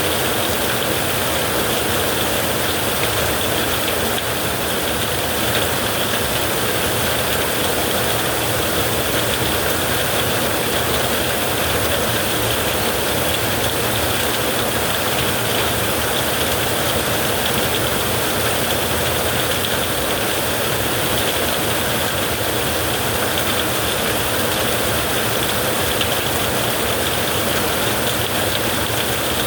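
Heavy rain falling, a dense, even hiss that holds steady throughout with no thunderclap.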